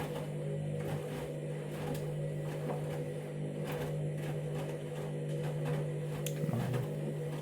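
Candy Grand'O Vita washing machine's drum motor humming steadily as it turns the drum during KG Detector load sensing, with light knocks from the small load of clothes tumbling inside.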